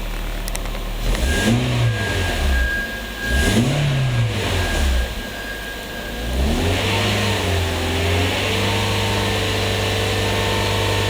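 2010 Toyota Corolla's 1.8-litre four-cylinder petrol engine idling, then revved twice in short blips that rise and fall, then brought up again and held at a steady raised speed.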